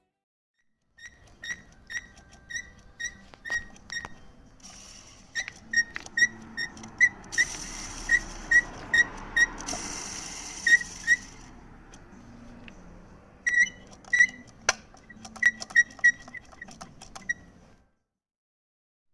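Clutch release bearing and fork area of a Subaru BRZ (ZC6) making its abnormal noise: runs of short, sharp squeaks, about two a second, with a shushing hiss from about 5 to 11 seconds in. This is the noise the clutch pedal set off at about 110,000 km, which the owner traces to the release bearing area.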